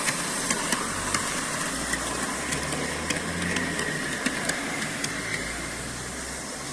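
Model train running along the track: a steady motor hum and rolling hiss, with irregular light clicks every half second or so, slowly fading.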